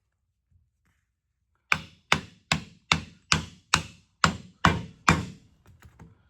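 Nine sharp mallet blows, about two and a half a second, tapping on the aluminum housing of a John Deere 430 baler gearbox to split its two halves apart, then a few light taps near the end.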